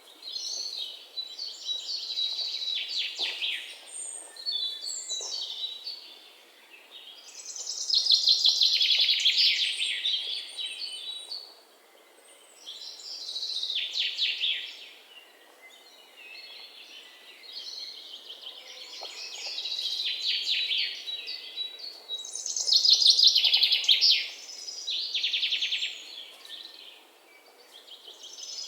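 Songbirds singing: high, rapidly trilled phrases a second or two long, repeated every few seconds with short pauses between them.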